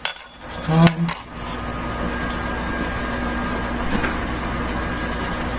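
A metal teaspoon clinks lightly a few times against a container as dry yeast is tipped in, then a steady low hum carries on.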